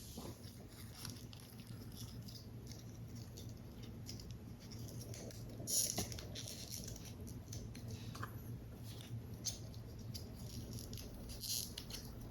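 Paper rustling with small taps and scratches as cut paper model pieces are handled and fitted together, with a louder brushing swish about six seconds in.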